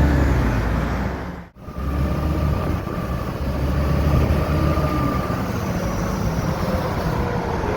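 Caterpillar 3406 diesel engine of a dump truck running steadily, with a brief dropout about a second and a half in.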